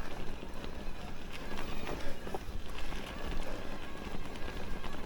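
Riding noise from an electric mountain bike on a rough trail: wind buffeting the microphone, tyres rolling over stones and frequent small clicks and rattles.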